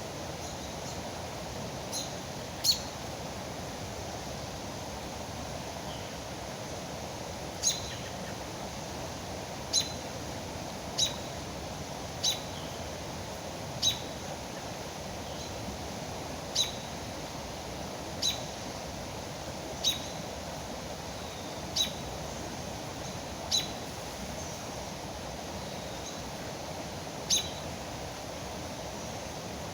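A single bird giving short, sharp, high chip calls, about a dozen of them at irregular gaps of one to five seconds, over the steady rush of a river.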